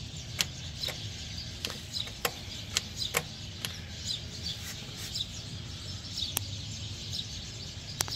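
Quiet outdoor background: scattered small bird chirps and light clicks over a low steady hum.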